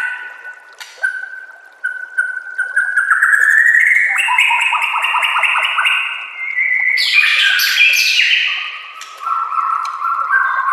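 White-rumped shama (murai batu) singing a loud, varied song of whistled phrases, rising glides and rapid trills, packed with mimicked phrases.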